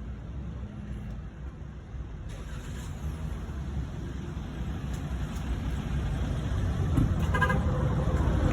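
Motor vehicle running: a steady low engine and road rumble that grows louder toward the end.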